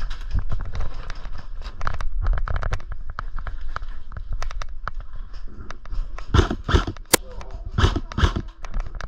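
Airsoft guns firing: scattered sharp pops and short bursts of shots, thicker in clusters in the second half, with low thuds of movement underneath.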